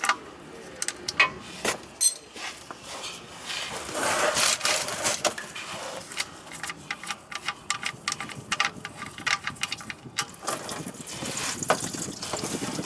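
A socket ratchet clicking in quick runs, with metal clinks, as the 14 mm oil drain plug is loosened.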